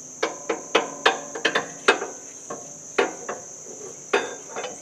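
A dozen or so irregular sharp metallic clinks and knocks, metal tools tapping and striking against metal parts. Crickets keep up a steady high chirping underneath.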